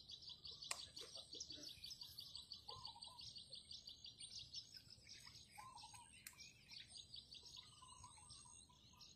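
Faint bird chirping: a fast, even run of high chirps that thins out about halfway through, with a few short, lower calls in between.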